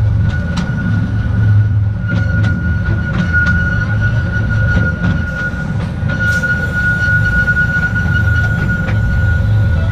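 Narrow-gauge Artouste tourist train rolling along the track: a steady low rumble with a thin, steady high wheel squeal and scattered irregular clicks from the wheels over the rails.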